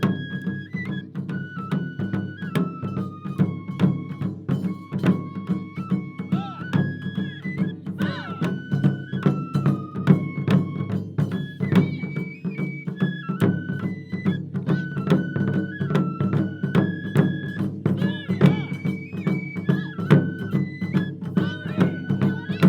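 Japanese taiko drum ensemble playing a fast, dense rhythm, with a high melody of held notes stepping from pitch to pitch over the drumming.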